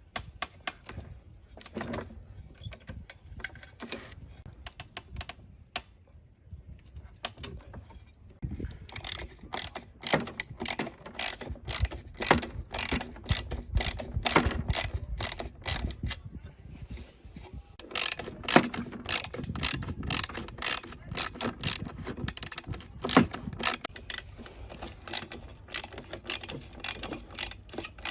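Ratchet wrench clicking as it is worked back and forth: scattered clicks at first, then rapid, continuous ratcheting from about a third of the way in.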